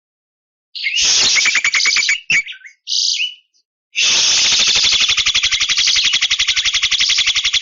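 Javan myna (jalak kebo) calling: a harsh, rapidly pulsed buzz and a few short notes, then after a brief pause a long, even, rasping rattle of about ten pulses a second.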